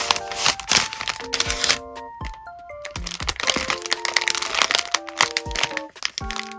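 Plastic wrapping and packing material crinkling and crackling as it is handled, with short pauses about two and a half seconds in and near the end. A light background melody of short plucked notes plays underneath.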